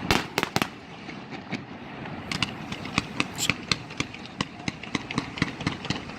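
Fireworks going off: a loud bang with two quicker reports right after it, then from about two seconds in a rapid, irregular run of many short pops.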